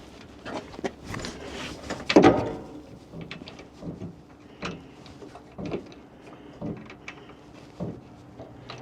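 A string of irregular knocks and clunks from parts and tools being handled and set down, about one a second, the loudest about two seconds in.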